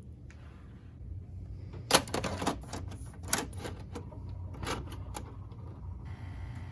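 A quick run of sharp clicks and taps from small hard parts being handled, bunched between about two and five seconds in, over a low steady hum. It fits a plastic HO-scale model locomotive being taken apart at the start of its cleanup.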